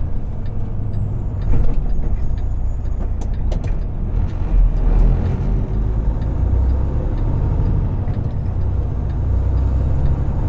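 Semi truck's diesel engine running and road noise heard inside the cab while driving, a steady low rumble.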